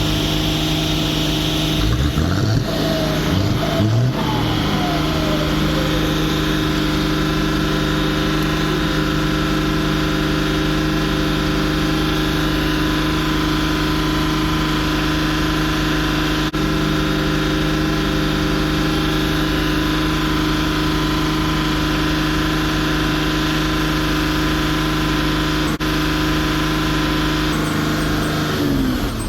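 Heavy truck engine running steadily at high revs, with a few short rising and falling pitch sweeps a few seconds in; near the end the revs drop away.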